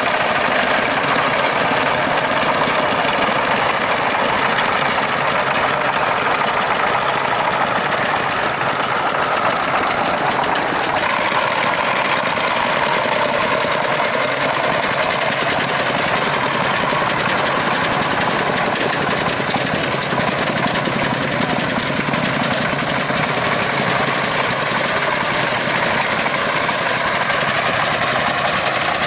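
Engine of a small farm truck running steadily, with a slight change in its sound about 11 seconds in.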